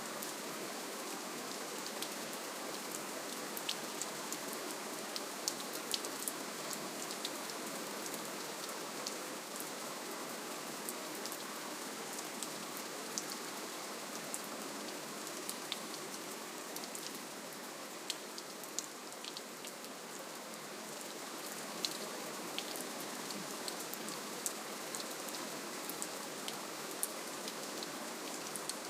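Gentle, steady rainfall: an even hiss with scattered individual drops ticking sharply on surfaces, easing slightly for a few seconds just past the middle.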